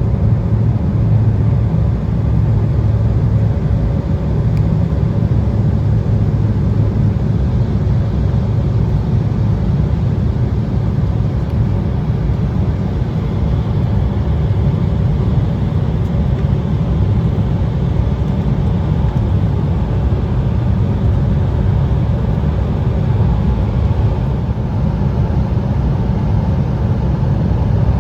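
Steady cabin noise inside an Embraer 175 regional jet descending on approach: an even low rumble of its twin turbofan engines and the airflow over the fuselage, with a faint steady hum above it.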